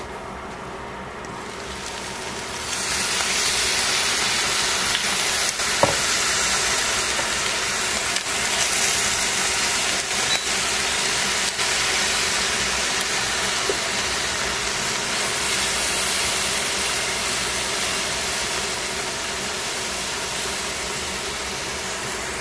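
Cabbage, carrot and chicken sizzling and hissing with steam in a stainless steel pan. The sizzle jumps much louder about two and a half seconds in as the glass lid comes off. A few sharp clicks of the utensil against the pan follow as the food is turned.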